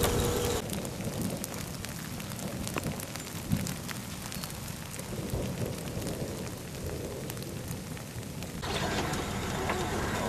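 Steady rain falling on a gravel road, with many scattered sharp ticks of drops striking and one louder knock about three and a half seconds in. Near the end it gives way to a louder, fuller outdoor background.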